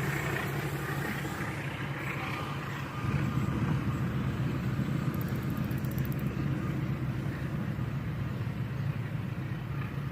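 Train running, a steady low rumble of wheels and engine that gets louder about three seconds in.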